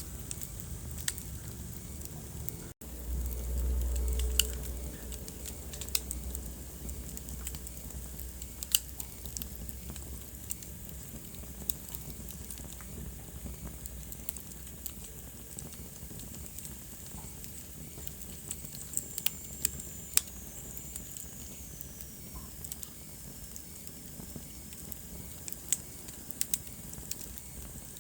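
Wood fire burning in a fireplace, crackling with irregular sharp pops over a steady hiss. About three seconds in the sound briefly cuts out, then a low rumble runs for a few seconds; a faint high whistle slides down in pitch about two-thirds of the way through.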